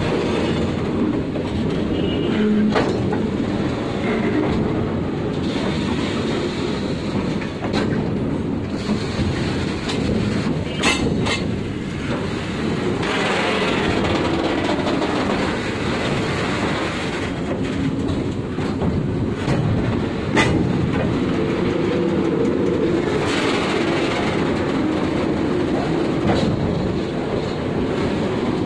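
Freight train of covered bogie wagons rolling past close by: a steady rumble of steel wheels on rail with clickety-clack over the rail joints and a few sharp clanks.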